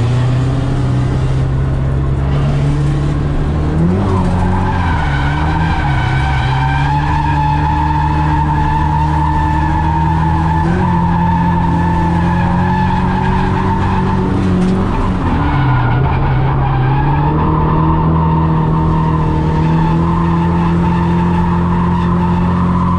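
Nissan 240SX S14 drift car on a run, engine held at high revs while the tyres skid. The engine note dips briefly and climbs back a few times, around 4 seconds in, around 10 seconds in and around 15 seconds in.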